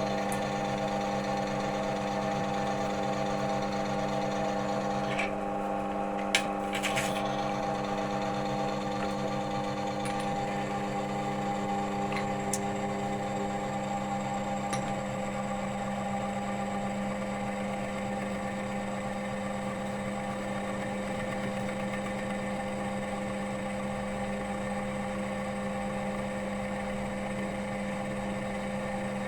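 Oil wear-test machine running, its test roller turning in warm engine oil with a steady motor hum. A few light clicks come about five to seven seconds in.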